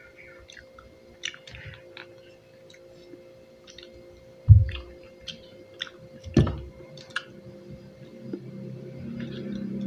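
Close-up chewing of juicy pineapple, with short wet mouth clicks scattered throughout. There are two dull thumps, about four and a half and six and a half seconds in, and a low steady hum comes up near the end.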